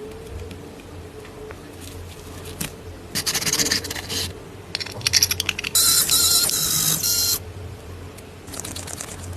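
Bursts of rapid mechanical clicking and scraping from small parts being worked, over a steady low hum. The longest and loudest burst comes about six seconds in and carries a faint wavering whine.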